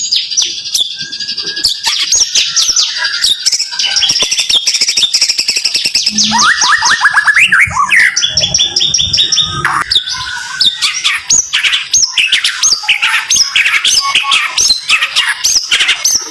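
White-rumped shama (murai batu) singing rapid-fire 'tembakan' song: fast runs of sharp rising notes, many per second, with a lower run of notes about six seconds in.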